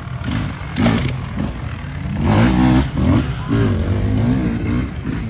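Off-road racing engines revving up and down as they ride the course, the revs swelling loudest around the middle, with a sharp burst of noise about a second in.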